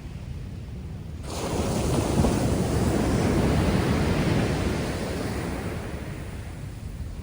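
Rough sea surf after a typhoon. About a second in, a wave breaks with a rush that swells, holds for a few seconds, then fades back into the steady low rumble of the heavy sea.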